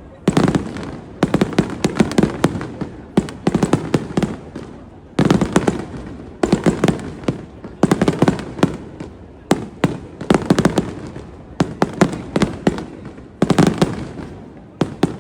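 Aerial fireworks shells bursting in quick volleys: clusters of sharp cracks and crackle about once a second, each dying away briefly before the next.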